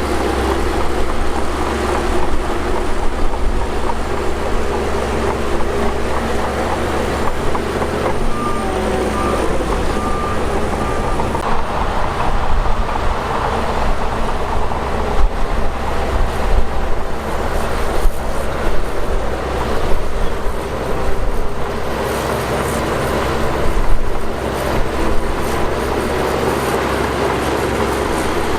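Shantui DH17 bulldozer running under load, its diesel engine holding a steady low drone while the steel tracks clank and rattle unevenly. Three short beeps sound about a third of the way in.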